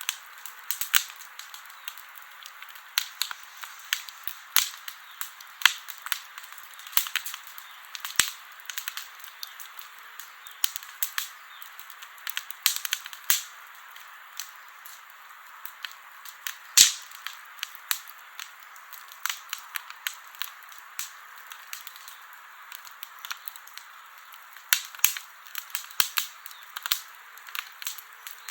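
Campfire burning in the open: wood crackling and popping in irregular sharp snaps over a steady hiss, with one loudest pop a little past the middle and a cluster of pops near the end.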